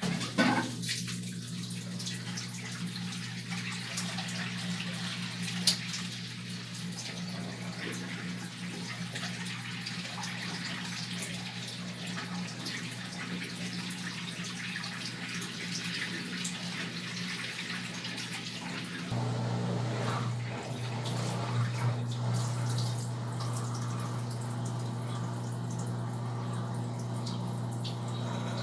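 Brastemp top-loading washing machine filling with water: water runs and splashes into the drum over a steady electrical hum from the inlet valve. It starts suddenly, and the hum grows stronger and lower about two-thirds of the way through.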